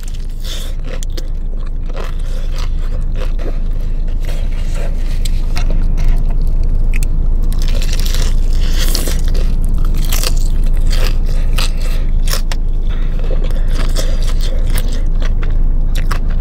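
Close-miked crunching and chewing of a crispy Jollibee fried chicken leg: repeated crackly bites through the breading and wet chewing, over a steady low hum.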